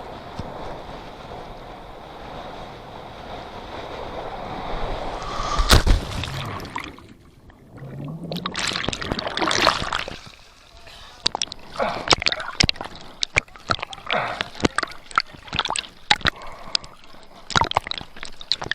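Wind rushing over the microphone, then a loud splash about six seconds in as a jumper hits the sea, followed by sloshing and gurgling water and many short sharp splashes.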